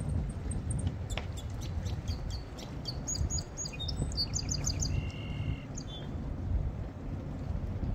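Small birds chirping in quick series of high, short chirps through the middle seconds, with one brief whistled note about five seconds in, over a steady low rumble.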